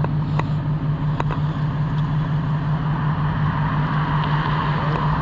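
Car engine idling steadily, a constant low hum, with a few faint clicks in the first second or so.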